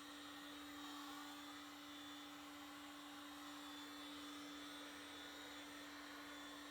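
Faint steady hum with a low hiss beneath it: room tone, with no other sound.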